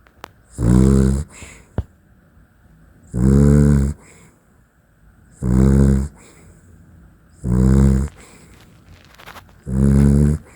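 A dachshund snoring loudly in its sleep: five long snores, each lasting under a second, coming about every two seconds.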